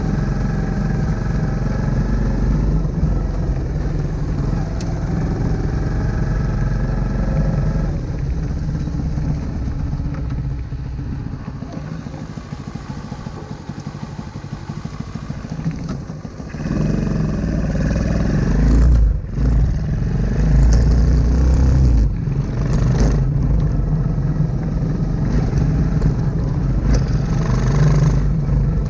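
Honda Super Cub C125's small air-cooled single-cylinder four-stroke engine running as the bike rides a rough dirt forest track, with heavy low rumble throughout. It eases off and quietens for a few seconds midway, then runs louder again from a little past halfway, with several knocks and rattles over the rough ground.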